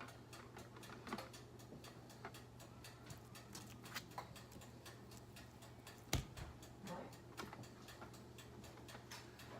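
Raw thick-cut bacon strips and a plastic microwave bacon tray being handled, giving faint light ticks and clicks over a steady low hum, with one sharper knock about six seconds in.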